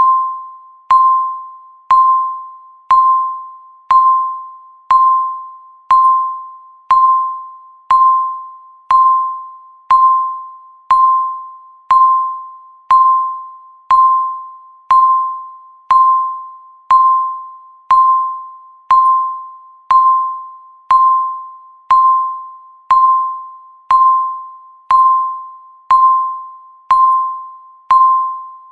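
Electronic countdown timer beep repeating once a second: a single clear tone with a sharp start that fades away before the next beep.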